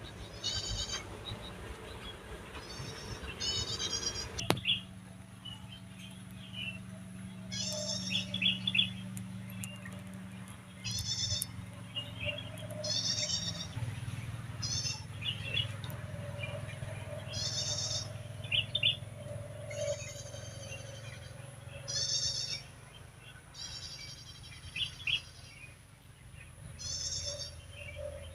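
Wild birds calling: short, rapid, high-pitched trilled calls repeated every second or two, with quick chirps between them.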